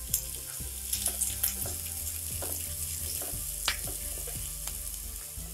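Chopped onions and green beans sizzling in hot oil in a frying pan, with a spatula scraping and tapping against the pan a few times as they are stirred.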